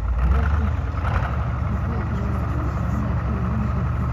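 KV-1 tank's V12 diesel engine running steadily, swelling louder in the first second, with faint voices over it.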